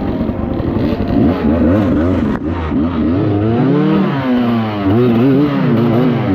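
Off-road vehicle engines revving, their pitch rising and falling repeatedly as the throttle is worked on the trail.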